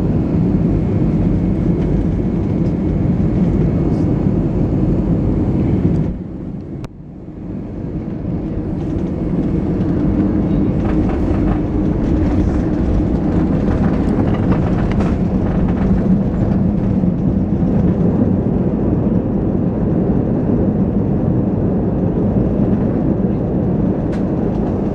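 Loud, steady cabin rumble of an Airbus A320-214 with CFM56 engines during its landing at Manila: engine and airflow noise, with faint rattles. About six seconds in, the noise drops suddenly and then builds back up over the next few seconds.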